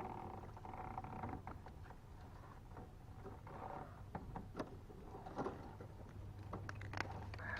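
Faint, irregular light clicks and knocks of gear and hull being handled in a kayak, over a low steady hum.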